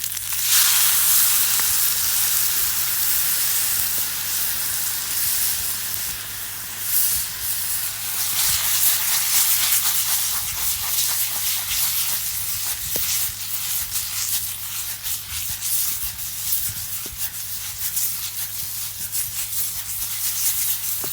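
Wine poured into a hot deep frying pan of penne and tomato sauce over a campfire, sizzling and steaming. The hiss surges up just after it starts and then keeps on at a lower steady level as the sauce cooks down.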